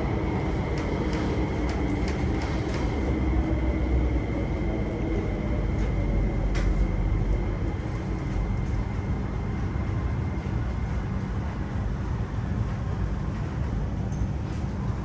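Kinki Sharyo–Kawasaki-built electric train running on the track: a steady low rumble with a thin electric whine, and a few light clicks. It grows a little quieter in the second half.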